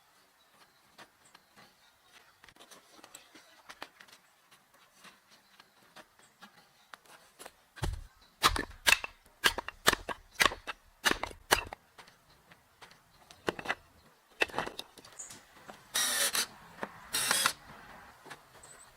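A run of loud, sharp knocks, about two a second, after faint ticking, followed by a few scattered knocks and two short rasping noises near the end.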